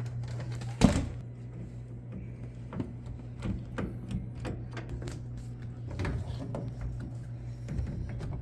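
Scattered clicks and knocks of hands and tools working on a top-load washing machine, with one sharp knock about a second in, over a steady low hum.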